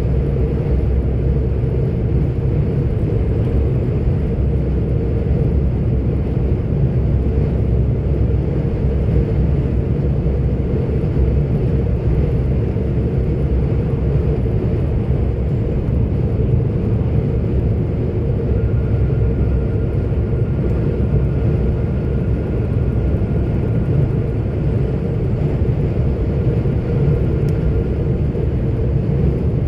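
A 44-ton articulated truck driving at a steady pace, heard from inside the cab as a constant low rumble of engine and road noise. A faint thin tone comes in past the middle for about ten seconds.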